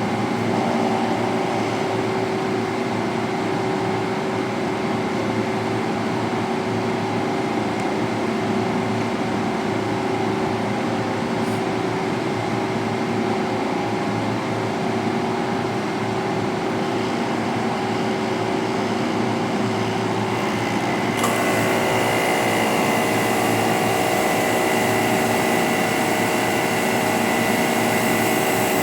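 Pressure washer motor running steadily with a hum. About twenty seconds in the sound changes, brightening and taking on a higher whine, then holds steady again.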